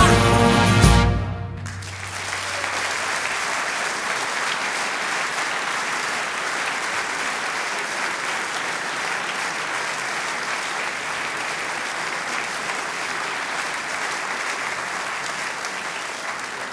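Big band's final sustained chord cut off about a second in, followed by steady audience applause.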